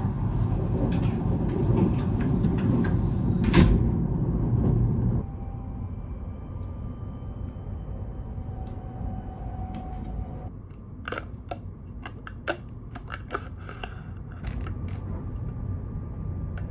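Kintetsu Shimakaze express train running, a steady low rumble heard inside the carriage, which cuts off suddenly about five seconds in to a quieter hum. About halfway through comes a run of sharp plastic clicks and crackles as a straw is worked in the lid of a plastic drink cup.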